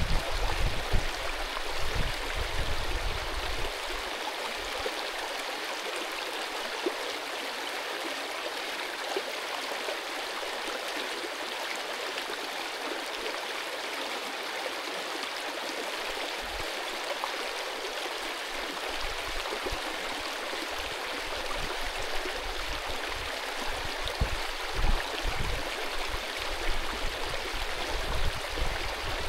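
Mountain stream rushing steadily over stones. Low rumbling bumps come in the first few seconds and again toward the end.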